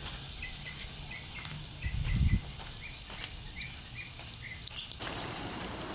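A small bird giving a run of short, repeated chirps, about three a second, that stop about five seconds in. A brief low rumble hits the microphone about two seconds in.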